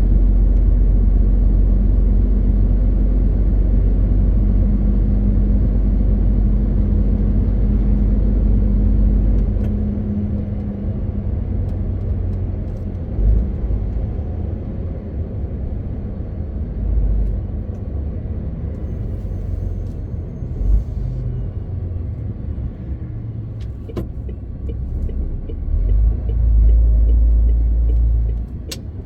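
MAN TGX 18.520 truck's six-cylinder diesel engine running with road noise. There is a steady low drone under load for the first ten seconds or so. It then eases to a lower level with a few short low thumps, and swells loud again near the end.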